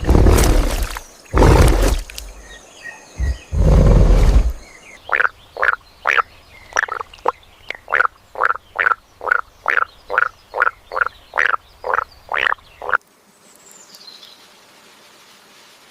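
A few loud, deep rumbling bursts, then a frog croaking in a fast, even series of short calls, about two a second, for some eight seconds before stopping suddenly.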